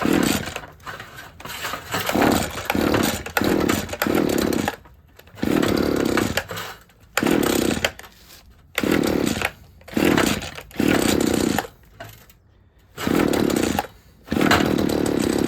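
Einhell two-stroke petrol hedge trimmer being pull-started again and again, about a dozen short bursts of cranking with pauses between. The engine does not catch and run, just after its fuel lines were replaced and the primer bulb pumped, as the owner waits for it to pick up fuel.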